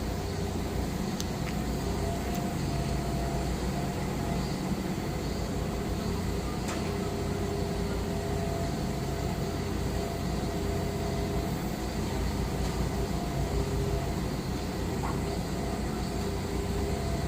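Diesel engine of a Manitou MRT3570 rotating telehandler running steadily under lifting work, a constant hum with a few faint clicks.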